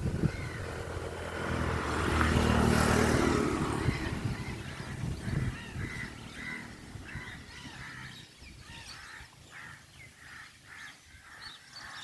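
Birds calling over and over, short honking calls about twice a second, after a louder swell of low humming noise that rises and fades a couple of seconds in.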